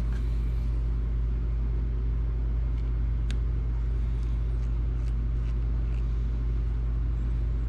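A steady low hum runs throughout, with a few faint, light clicks from a small screwdriver working tiny screws in a game console's plastic shell.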